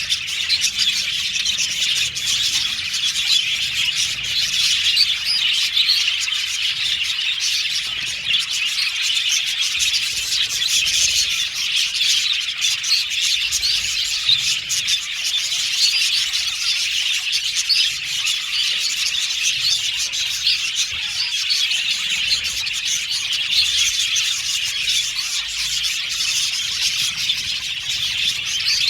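A group of budgerigars chirping continuously, with many high calls overlapping and no pauses.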